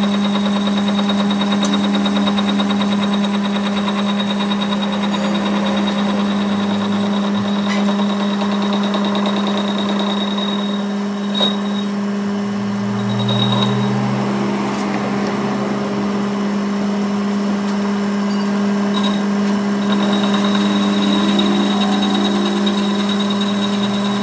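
Steady machine hum at one constant low pitch, with a brief click about eleven seconds in.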